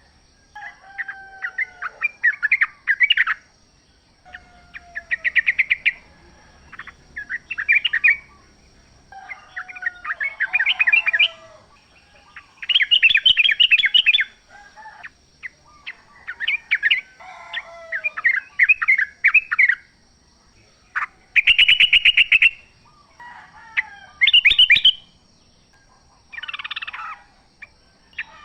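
Yellow-vented bulbuls (trucukan) singing: repeated phrases of quick bubbly notes, about a second each, several opening with a lower sliding note, with short pauses between. A faint steady high tone runs underneath.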